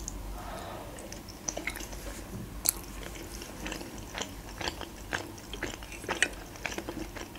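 Close-miked chewing of a soft boiled dumpling, with many small wet mouth clicks and smacks through the chewing.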